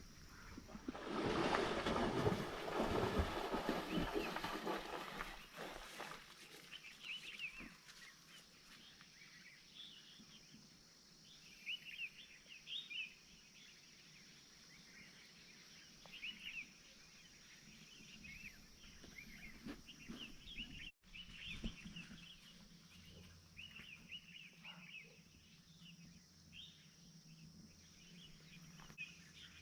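Small birds chirping, with many short high calls scattered throughout. For the first few seconds a louder rough noise sits over them, and the sound cuts out for an instant about two-thirds of the way through.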